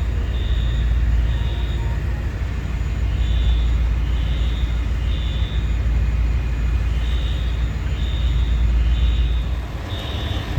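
Building fire alarm sounding the temporal-three evacuation pattern: three short high beeps, a pause, then three more, repeating, over a steady low engine rumble from idling vehicles.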